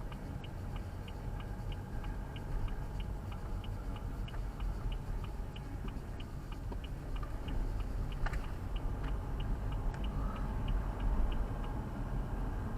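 Car turn-signal indicator ticking steadily, about three clicks a second, over the low rumble of the car driving; the ticking stops shortly before the end. There is one sharper click about 8 seconds in.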